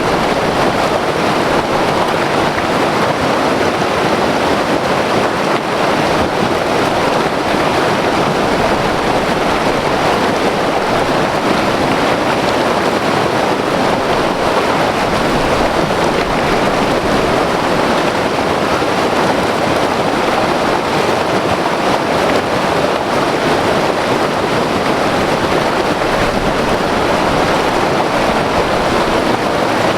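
White-water river rushing over rocks: a loud, steady, unbroken roar of churning water.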